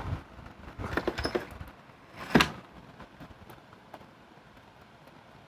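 A few light clicks, then one short sharp knock about two and a half seconds in, over a faint steady background.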